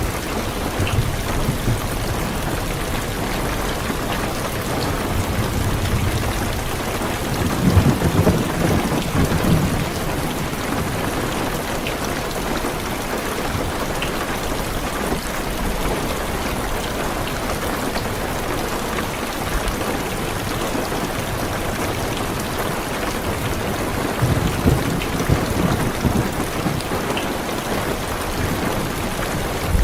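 Heavy rain hissing steadily on a car's roof and windows, with low thunder rumbling twice, about a third of the way in and again near the end.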